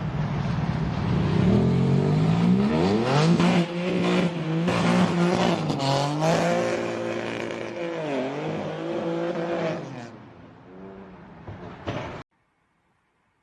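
Car engine revving hard under acceleration, its pitch climbing, holding and dropping again as it works through the revs, then fading away. A short loud sound comes just before the sound cuts off, about twelve seconds in.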